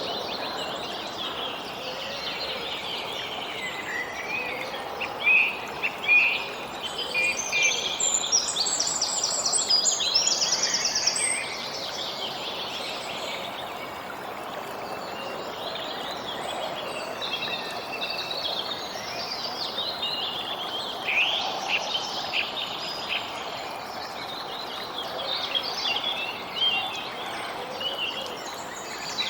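Many small birds chirping and singing over a steady outdoor background noise, busiest a third of the way through with rapid repeated trills.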